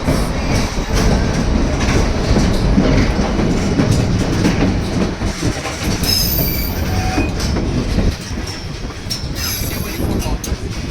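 White Pass & Yukon Route narrow-gauge train running, its wheels rattling and clacking over the rails, with high wheel squeals about six seconds in and again near the end.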